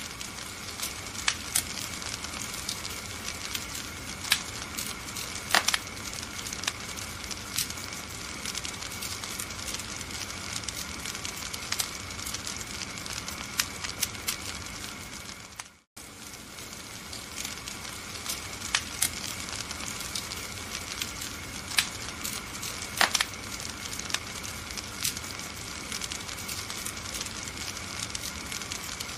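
Wood fire in a fireplace burning with a steady hiss and irregular sharp crackles and pops. About halfway through, the sound cuts out for a split second and starts again.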